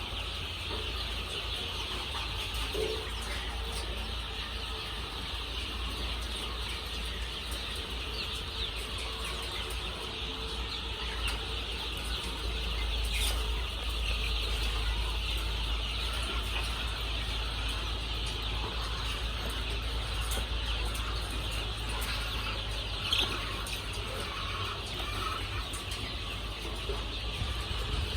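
A large flock of chickens calling and clucking continuously, many voices overlapping, with a steady low hum underneath.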